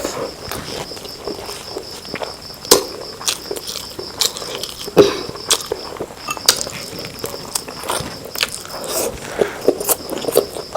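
Close-miked eating of rice and chicken curry: chewing and wet mouth smacks with irregular sharp clicks, over a steady high-pitched insect trill.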